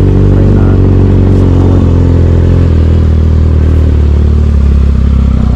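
Motorcycle engine running loud and close to the microphone, its note dropping to a lower pitch about halfway through.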